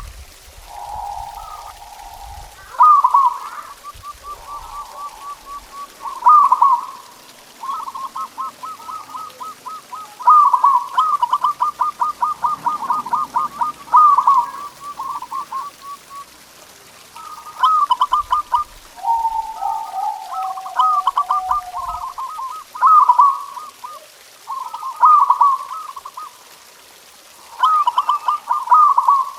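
Zebra doves (perkutut) cooing: phrases of quick staccato coos repeating every few seconds, with a second, lower-pitched dove overlapping now and then, including a falling run of notes about two-thirds of the way through.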